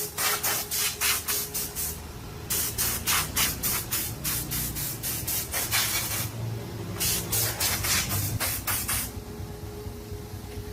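Short hissing spray bursts, about three to four a second, in three runs with brief pauses between them, over a low background hum.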